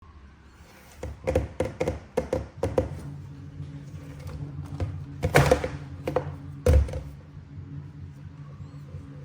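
Toy figure packaging being handled: a quick run of light taps and knocks, a brief rustling scrape a little past five seconds in, and a heavier thunk near seven seconds, over a low steady hum.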